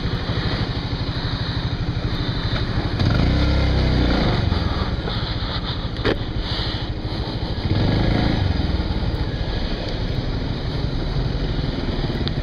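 Motorcycle engine running while the bike is ridden, swelling louder twice, about three seconds in and again about eight seconds in, with a single sharp click midway.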